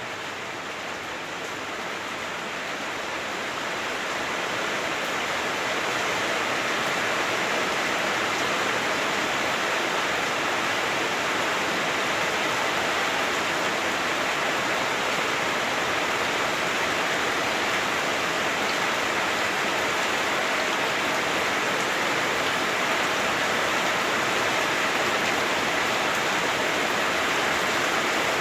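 Heavy rain falling on a house roof, heard from inside the house: a dense, steady hiss that grows louder over the first five seconds or so, then holds.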